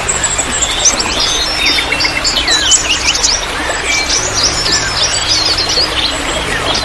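Many small songbirds chirping and twittering at once, with dense, overlapping short high calls and quick sliding notes, over a steady trickle of running water.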